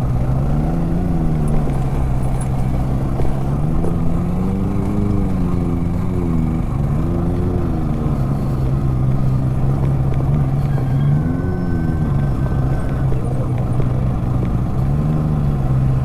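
Benelli 600i's inline-four engine running at low revs, its pitch rising and falling several times with the throttle as the motorcycle is ridden slowly up a rough, broken road.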